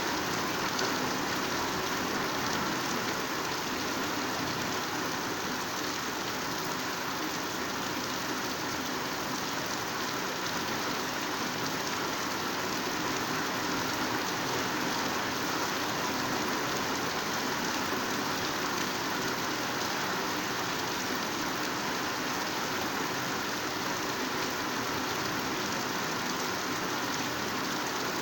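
Heavy rain falling steadily on foliage, a dense even hiss of downpour with no let-up.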